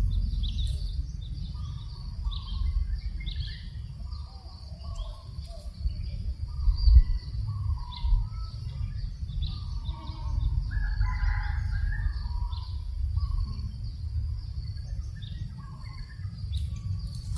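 Birds chirping and calling throughout over a low, steady wind rumble, with a rooster crowing about ten seconds in.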